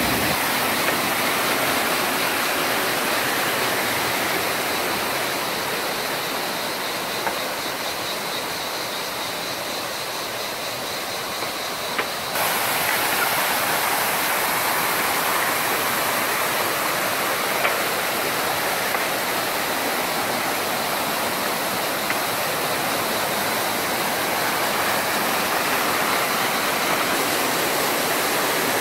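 Steady rush of a canyon stream and its small waterfalls, a continuous hiss of running water whose tone changes abruptly about twelve seconds in.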